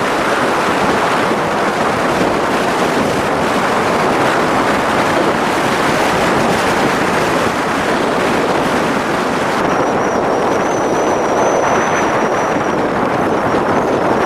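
Blizzard wind rushing steadily and loudly over the microphone. A faint, steady high whine joins it about ten seconds in.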